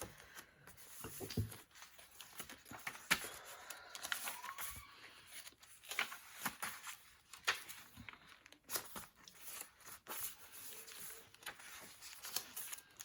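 Paper and card being handled: quiet rustling and crinkling with many small taps and clicks.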